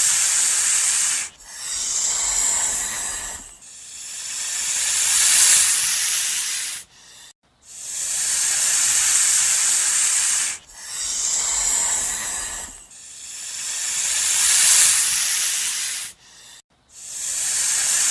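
A series of about six long, high-pitched hisses, each two to three seconds, with short breaks between them; some swell before cutting off abruptly.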